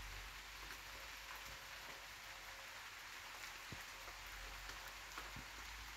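Light rain just starting, falling on leaves and grass: a faint steady hiss with scattered drop ticks.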